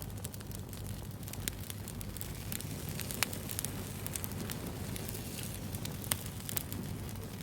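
Bonfire burning: a steady low rumble of flames with irregular sharp crackles and pops of burning wood, a few louder pops about three and six seconds in.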